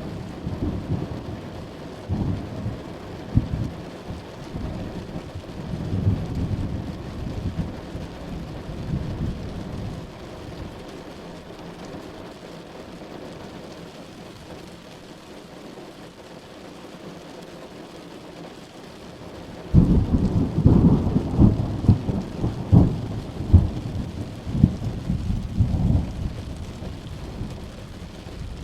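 Steady rain with rolling thunder. The thunder rumbles and crackles at first and dies down to rain alone for several seconds. About two-thirds of the way through, a loud crack of thunder breaks in and rumbles on, crackling, to the end.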